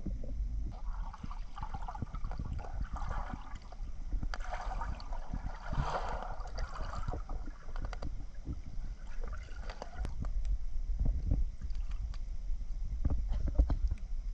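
Lake water splashing and sloshing around a swimmer, loudest about six seconds in, over a low, steady rumble.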